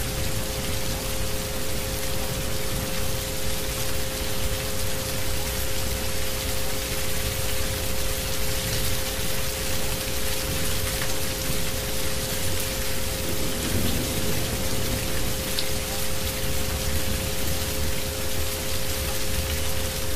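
Steady rain falling, with two steady pitched tones held underneath it: the isochronic tones of a subliminal soundscape.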